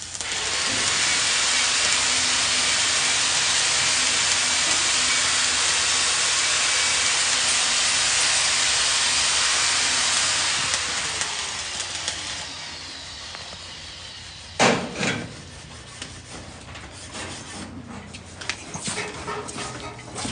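Angle grinder running steadily on steel with a loud hiss, then released about ten seconds in and winding down over a couple of seconds. Two sharp metal knocks follow.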